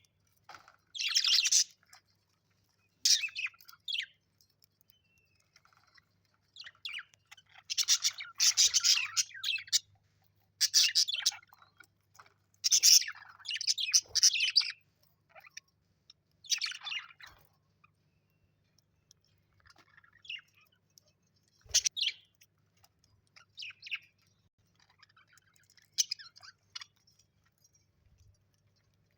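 Parrot chirping in short, high-pitched bursts separated by pauses, busiest in the first half, with a faint steady low hum underneath.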